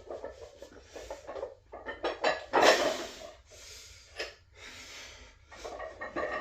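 Hard, forceful breathing of someone lifting, with a few sharp metallic clinks of gym equipment about two seconds in.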